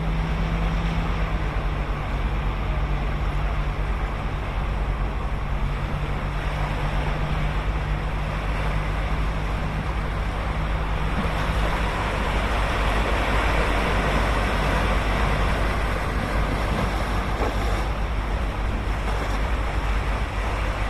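Ocean waves breaking and washing up the beach in a steady surf wash that swells louder a little past halfway. A steady low hum sits under it and stops about halfway through.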